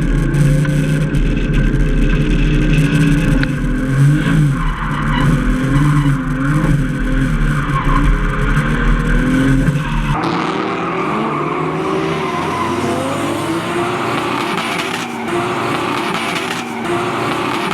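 Drift car engines revving up and down with skidding tyres. The sound changes abruptly about ten seconds in, to a noisier mix of rising and falling engine notes.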